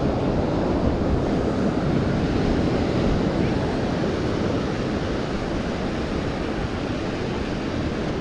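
Ocean surf washing steadily onto a beach, a continuous rushing wash that swells a little in the first few seconds and then eases, with wind rumbling on the microphone.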